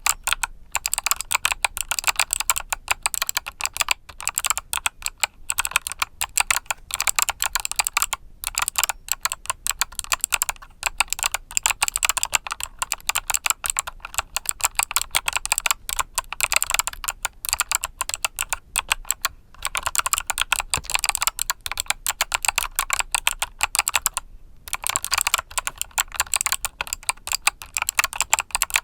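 Continuous fast typing on a mechanical keyboard with clicky Kailh Box switches: a dense stream of sharp key clicks, broken by a few short pauses.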